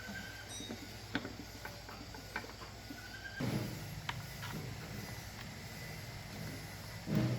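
Scattered light clicks and knocks over a steady low hum, with two louder dull thumps, one about halfway and one near the end.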